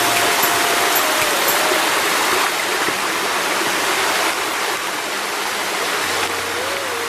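Waterfall: a steady rush of falling water, easing slightly in level about a third of the way in.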